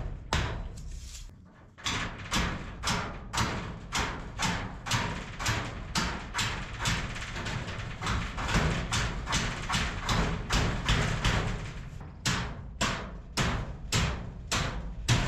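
A hammer driving a stake into the ground with steady blows, about two a second, after a short pause near the start.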